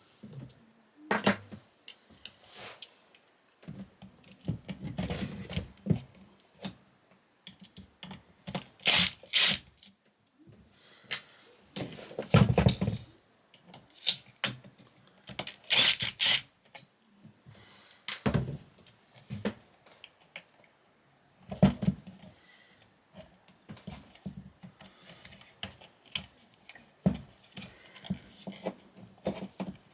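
Irregular clicks, knocks and short scrapes as electrical connectors are unclipped and pulled out of a high-voltage junction box and handled.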